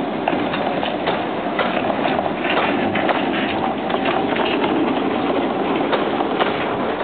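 Narrow-gauge train's carriages rolling past, wheels clicking irregularly over the rail joints over a steady rumbling clatter.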